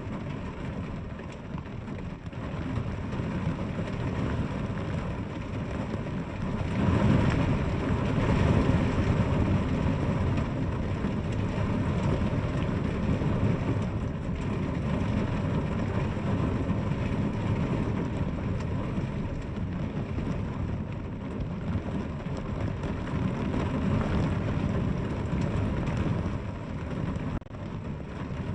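Steady heavy rain falling with a deep, even rush, swelling louder for a few seconds about seven seconds in.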